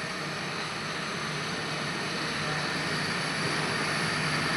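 Brazing torch flame hissing steadily as it heats a refrigerator pipe joint and filler rod, growing slightly louder about halfway.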